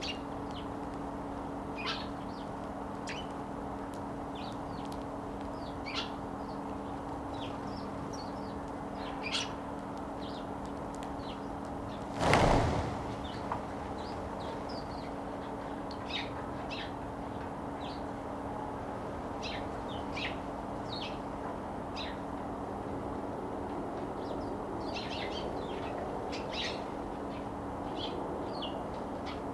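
Eurasian tree sparrows chirping, short high chirps scattered throughout, over a steady low hum. About twelve seconds in there is a brief loud rush of noise.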